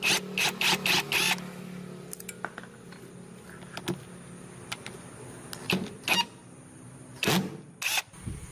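Workshop tool work on a motorcycle: a quick run of sharp clicks and knocks, then scattered single knocks over a faint low steady hum.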